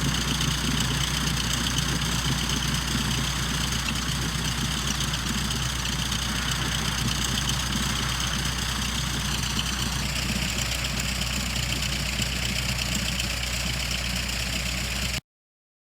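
Cessna 152's four-cylinder Lycoming O-235 engine and propeller running steadily at low power, as when idling or taxiing. The sound cuts off abruptly near the end.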